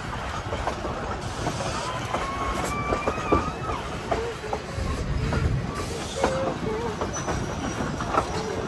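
Passenger train rolling on the rails, its steel wheels squealing in wavering high tones over a low rumble and scattered clanks.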